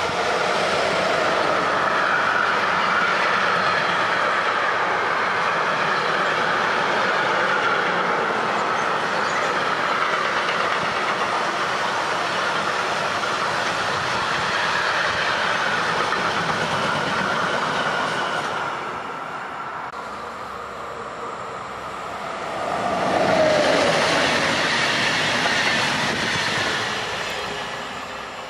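Electric freight train of covered sliding-wall wagons passing close by, a steady rolling roar and clatter of wheels on the rails. About two-thirds through it eases off, then swells again with a short wheel squeal before fading away as the tail of the train recedes.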